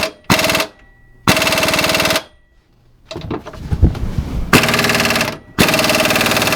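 Impact wrench hammering on a hitch bolt in four bursts of rapid blows, with a few loose knocks between them; the bolt will not turn because the threaded hole is fouled with crud.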